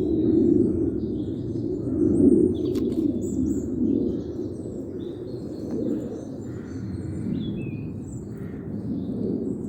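Small wild birds chirping and calling, many short notes, over a steady low rumble. One click a little before three seconds in.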